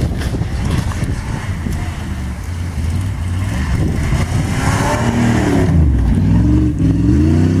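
Chevy truck's engine working hard as it pushes into deep snow: a churning low rumble at first, then from about halfway several revs that rise and fall one after another.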